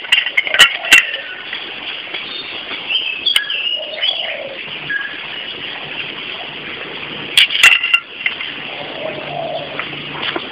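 Birds chirping in the background over a steady outdoor hiss, with a few sharp clicks, two near the start and two more about seven seconds in.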